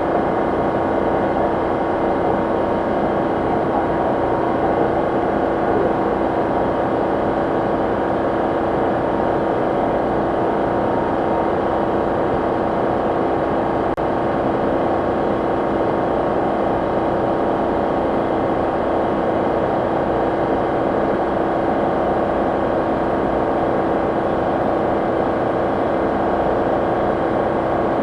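Steady, unchanging hum of a Ford EcoSport running with its air conditioning switched on, engine and A/C together, with a constant tone through it.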